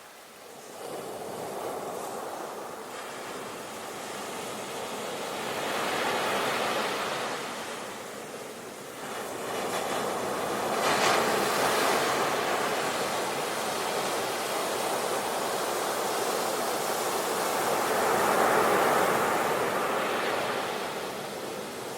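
Sea waves washing onto the shore, swelling and fading in repeated surges, the strongest about halfway through and another near the end.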